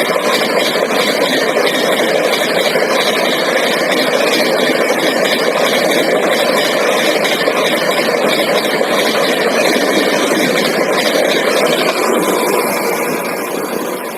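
Express train passing at speed: a steady, loud rush of coaches and wheels on the rails. It begins to fade near the end as the train draws away.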